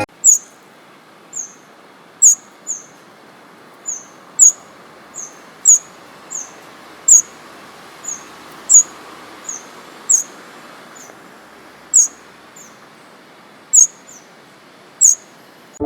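A small bird chirping over and over: short, sharp, high chirps that drop quickly in pitch, about one a second, some much louder than others, over a faint steady hiss.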